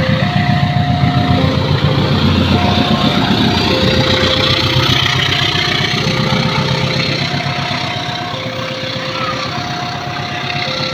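Railway level-crossing warning alarm sounding a two-tone electronic 'ting-tong', high and low notes alternating about once a second. A heavy engine rumbles underneath, slowly fading toward the end.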